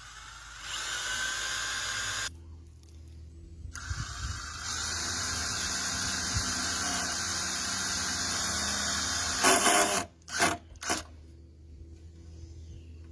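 Power drill driving screws into wood. A short run with a rising whine is followed by a longer steady run of several seconds, ending in a few short bursts.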